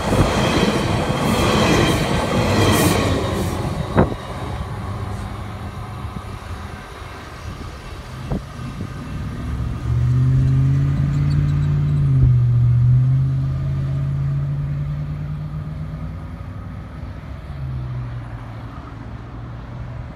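Metrolink bilevel commuter coaches rolling past with wheel-on-rail noise and a sharp click about four seconds in, the noise falling away as the train goes by. About ten seconds in, a low engine drone starts and holds for several seconds before easing off.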